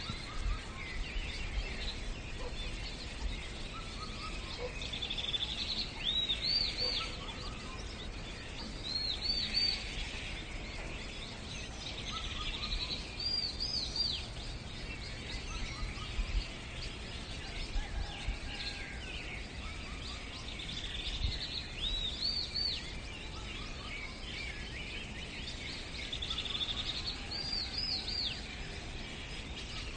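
Birdsong: a short phrase of high looping notes repeats every few seconds over a steady background hiss.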